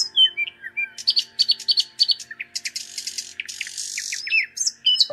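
Oriental magpie-robin singing: a varied run of clear whistled notes, with a fast series of repeated notes and a stretch of harsh buzzy notes in the middle.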